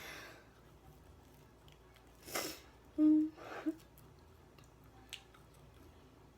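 Eating noises from someone having spicy instant ramen: a quick noisy breath about two seconds in, then a short hummed 'mm' and another breath, with faint chewing clicks around them.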